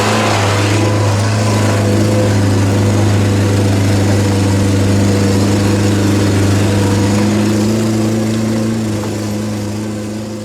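Vehicle engine running steadily with a deep, even hum, fading away over the last couple of seconds.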